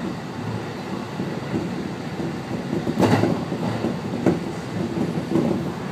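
Commuter train running on the rails, heard from inside the car: a steady rumble with two sharp clacks, one about three seconds in and another just over a second later.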